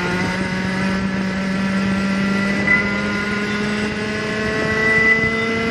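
Go-kart's 125 cc two-stroke engine running on track, freshly run in. Its note climbs slowly and steadily as it pulls, then starts to ease off near the end.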